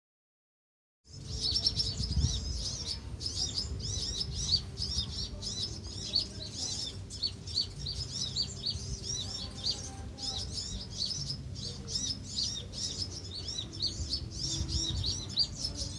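A colony of Van Hasselt's sunbirds calling: a dense, unbroken chorus of quick, high chirps that starts about a second in, over a low rumble.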